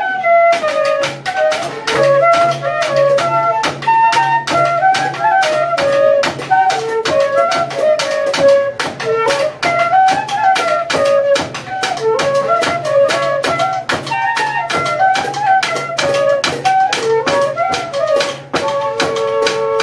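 Banda de pífano playing an instrumental passage: cane fifes carry a lively, ornamented melody over a steady low tone, driven by fast, regular strokes of drum and cymbal.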